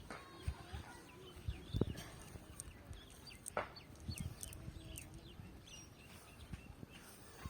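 Birds chirping in short repeated calls, with a few low thumps and one sharp click about three and a half seconds in.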